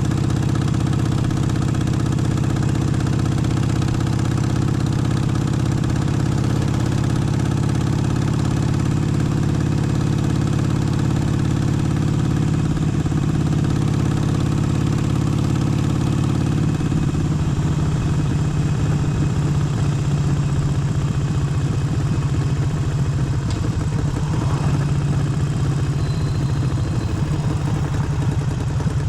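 Harley-Davidson Forty-Eight's air-cooled V-twin idling steadily, its note changing a little past halfway through.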